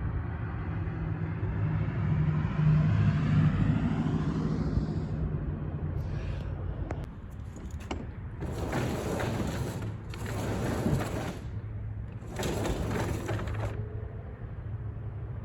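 A car's engine passing close by and fading away over the first few seconds, over a steady low hum. Later come three rough rustling noises of about a second each.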